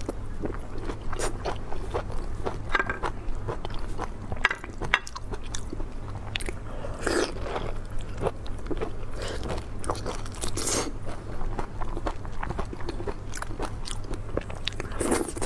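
Close-miked eating of meat: wet chewing and biting with irregular crunches and clicks, over a steady low hum.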